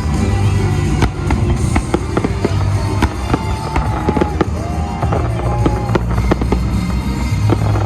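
Fireworks going off in a rapid, irregular string of sharp bangs and crackles, with a few short whistling glides in the middle, over loud music with a heavy bass.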